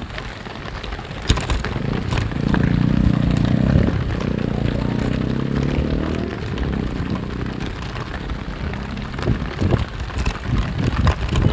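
A steady rushing noise with scattered crackles. About two seconds in, a motor engine's hum swells for a few seconds and then fades away.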